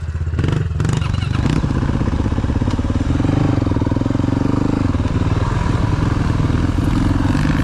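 Dirt bike engine running steadily under throttle while riding, its pitch wavering slightly, with a few knocks or clatters in the first second or so.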